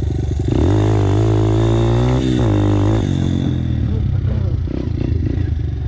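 Dirt bike engine opened up under throttle, its pitch climbing about half a second in and holding for a couple of seconds, then dropping as the throttle is rolled off, leaving the engine running lower and choppier.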